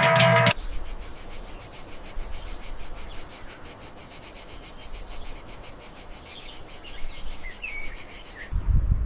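Music cuts off about half a second in, giving way to a steady, fast-pulsing insect trill, with a few faint bird chirps over it. Near the end the trill stops and a low rumble takes over.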